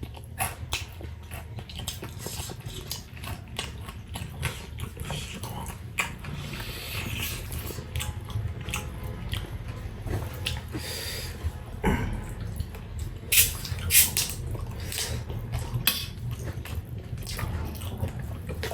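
People eating: wet mouth and chewing sounds with frequent small clicks and knocks of plates and cutlery, over a low steady hum.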